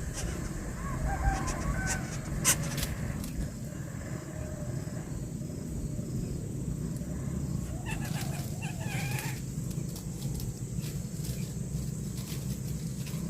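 A bird calls once, a long rising-and-falling call about eight seconds in, over a steady low rumble, with a few sharp clicks in the first seconds.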